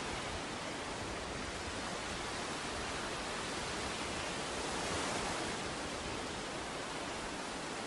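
Ocean surf washing on a beach: a steady rush of breaking waves that swells a little about five seconds in.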